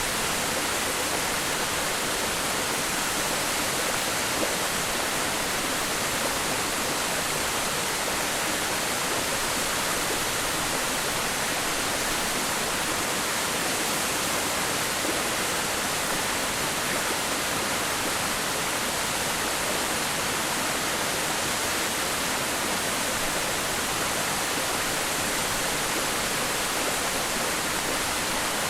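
Waterfall: water falling onto rock and pool in a steady, unbroken rush, with most of its energy in the hiss and little low rumble.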